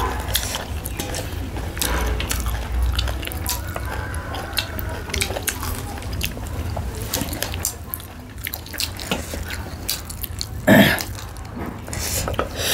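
Wet chewing and lip-smacking of people eating pork with their hands: a steady string of small moist clicks, with one louder burst a little before the end.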